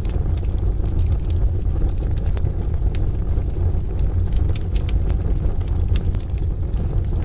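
Wood fire in a stove crackling, with scattered sharp pops, over a steady deep rumble.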